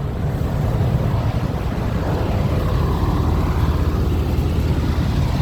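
Semi truck's diesel engine running steadily, a dense low-pitched drone with no change in speed.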